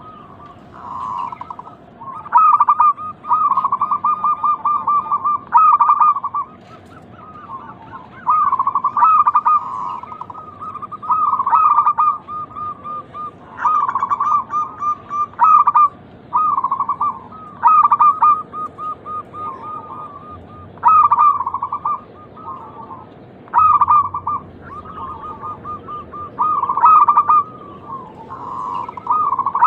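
Zebra dove (perkutut) song: repeated phrases of quick, rippling coos, a new phrase every second or two with short breaks between.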